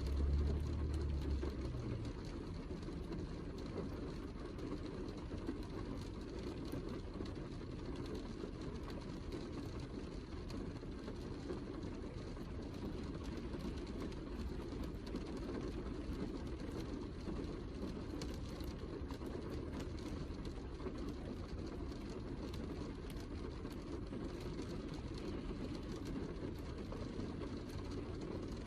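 Heavy rain falling steadily, a dense even wash of noise weighted toward the low end, with a brief deeper rumble in the first couple of seconds.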